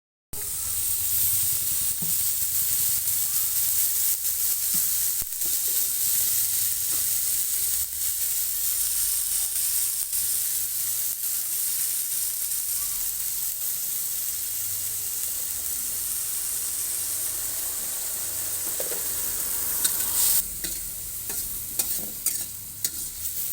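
Egg-roll filling frying in hot oil in a pan, a steady sizzle. The sizzle eases about twenty seconds in, and a few clicks follow near the end.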